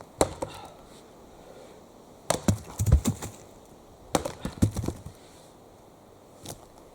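Axe chopping wood: one sharp strike just after the start, two clusters of knocks and cracks around the middle, and a single knock near the end.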